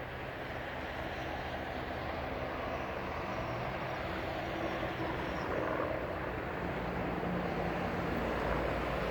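Helicopter running, a steady drone of engine and rotor noise that slowly grows louder.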